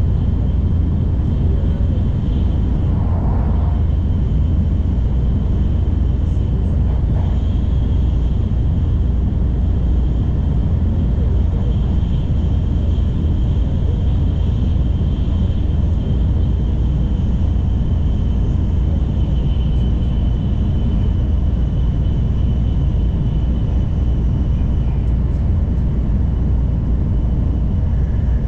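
Steady low rumble of an N700 series Shinkansen running at speed, heard from inside the carriage, with a faint high steady whine above it.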